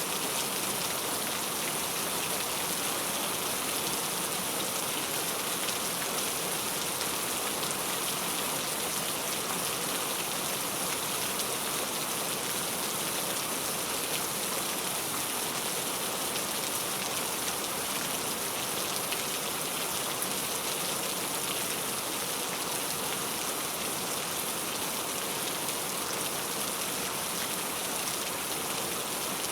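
Heavy rain falling steadily, an even hiss of many drops hitting a surface with no let-up.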